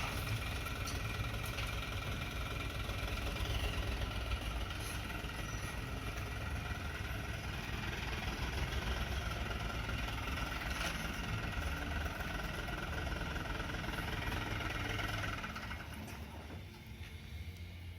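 Dump truck's diesel engine running steadily, fading away near the end.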